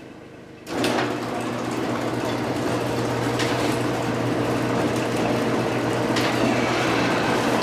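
Steady mechanical running noise with a low hum, cutting in suddenly about a second in.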